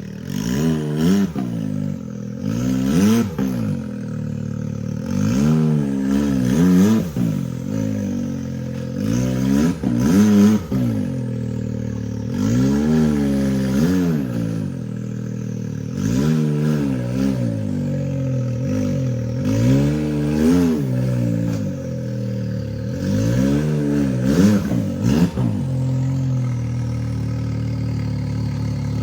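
Side-by-side UTV engine revved in about nine short bursts of throttle, each pitch rising and falling back, with clatter and scrapes between them, as it works up a rock ledge; it settles to a steady idle near the end.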